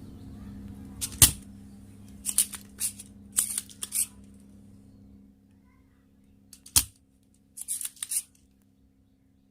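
Spring-loaded desoldering pump (solder sucker) firing twice, each a sharp snap, about five and a half seconds apart, as solder is sucked off a potentiometer's pins. Between the snaps come smaller clicks and rattles of handling. A steady low hum stops about five seconds in.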